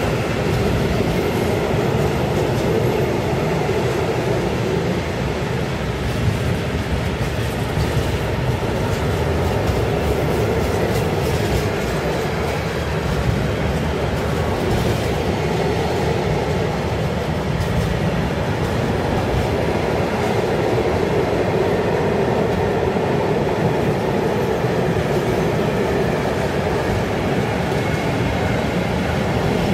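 A train rolling steadily along the track: a continuous rumble of wheels on rails with no pauses.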